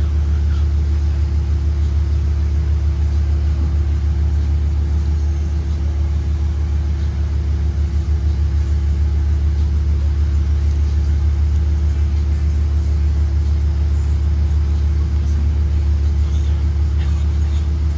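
2023 Blue Bird Vision school bus under way: a steady low engine and road rumble with a constant hum running through it.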